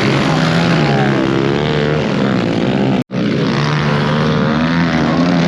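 Steady drone of small engines running, with a brief sudden dropout about three seconds in.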